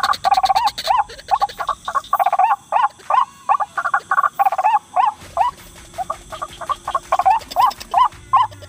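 White-breasted waterhen (ruak-ruak) calling: a fast, continuous run of repeated croaking notes, each rising and falling in pitch, about three or four a second, with brief pauses about three and five seconds in.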